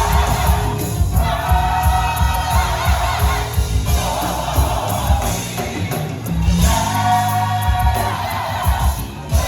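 Gospel choir singing long held notes over a live band with bass and drums.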